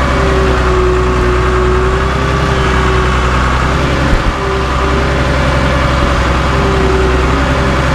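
Caterpillar D3C LGP bulldozer's diesel engine running steadily, with a wavering whine over it and a single knock about four seconds in.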